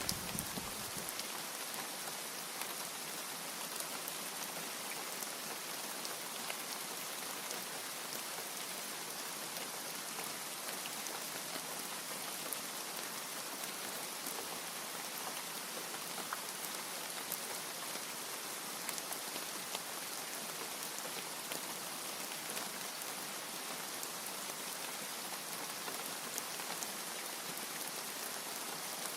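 Steady heavy rain, an even hiss with scattered fine drop ticks. The last of a low thunder rumble dies away in the first second.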